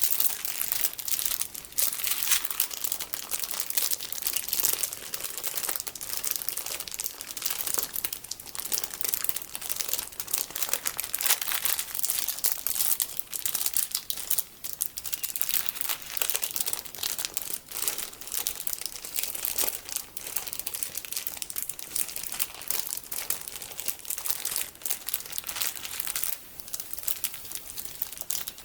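Plastic packaging holding small colourful sticky beads being squeezed and handled close to the microphone: continuous dense crinkling and crackling.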